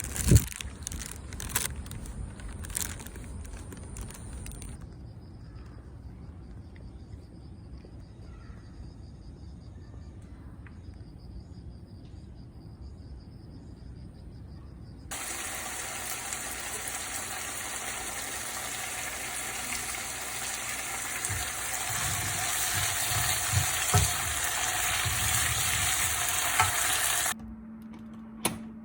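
Food sizzling in a frying pan, starting suddenly about halfway through and cutting off shortly before the end. Before it come a few sharp clicks and knocks.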